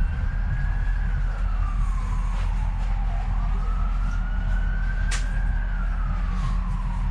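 An emergency vehicle's siren wailing, its pitch slowly rising and falling twice, heard over the low rumble of the moving Docklands Light Railway train. There is a single sharp click about five seconds in.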